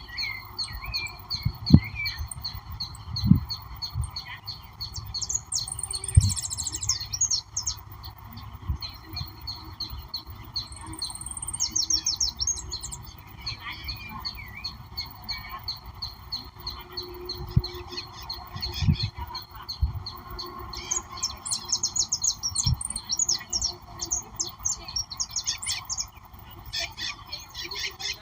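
A mixed chorus of wild birds: several birds chirping, trilling and calling at once, with rapid high-pitched trills and some harsher squawks, over a steady background hiss. There are a few short low thumps.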